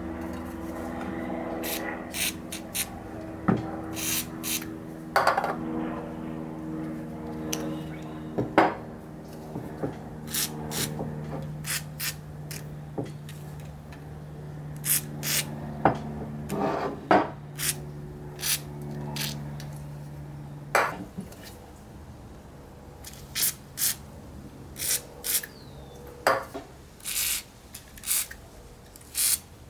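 Steel parts of a bench vise clinking and clanking as they are handled and set down, in many separate sharp knocks. A steady low hum sits underneath and stops about 21 seconds in.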